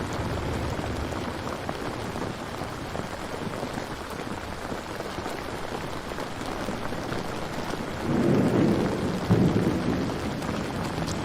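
Steady heavy rain, with a low roll of thunder swelling about eight seconds in and lasting a couple of seconds.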